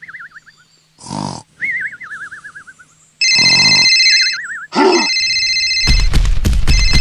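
Cartoon snoring sound effect: a snort followed by a wavering, falling whistle, twice. About three seconds in, a loud bell starts ringing like an alarm clock; it pauses briefly and then rings on with a rapid clatter.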